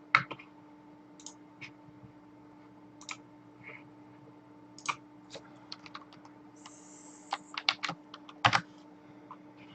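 Scattered keystrokes on a computer keyboard, coming faster in a quick run near the end, over a faint steady hum.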